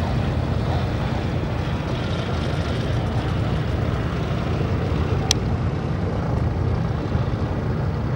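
Steady low engine rumble, with a single short click about five seconds in.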